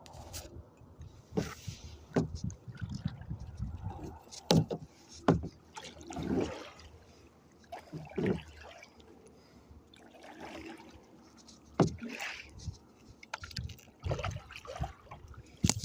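Kayak paddling: the paddle dipping and splashing in the water stroke after stroke, with dripping and a few sharp knocks between strokes.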